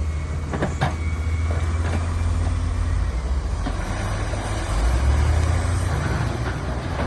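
Heavy diesel earthmoving machinery running with a deep, steady rumble that swells about five seconds in. A couple of sharp knocks sound about a second in.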